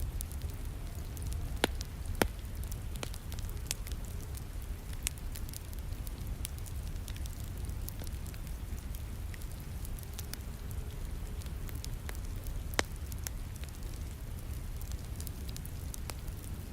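Wood fire crackling, with many small snaps and a few louder pops, over the steady hiss of rain and a low rumble.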